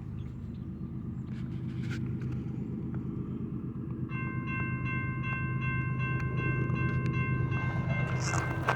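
Diesel locomotives of a Union Pacific freight train pulling slowly, their engine drone growing louder. About four seconds in, a multi-note train horn starts and holds steady.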